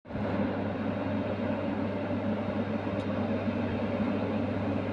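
Freight locomotive running with a steady, even hum as it pulls a train of tank wagons away.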